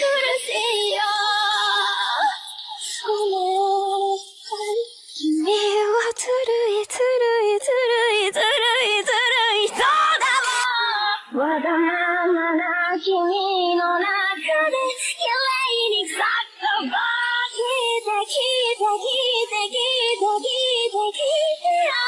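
A high-pitched female voice singing a melody in a song, with wavering, vibrato-laden phrases.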